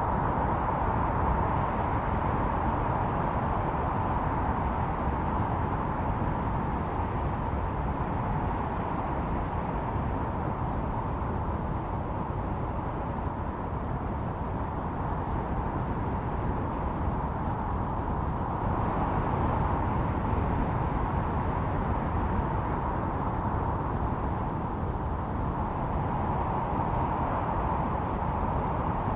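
Snowstorm wind blowing steadily with a low rumble and a whistling howl that swells and eases in gusts.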